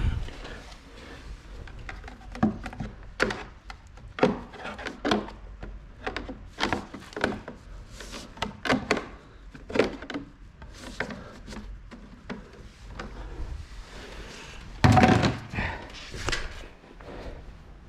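Irregular knocks, clunks and rubbing from hands working with parts and tools, with a louder thump and rustle about fifteen seconds in.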